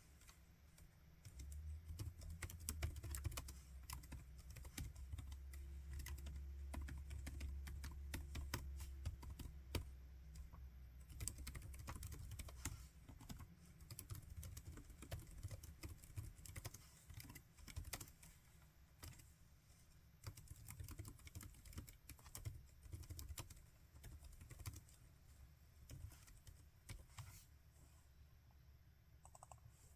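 Laptop keyboard being typed on in steady, irregular runs of key clicks. A low hum sits under the typing for roughly the first half.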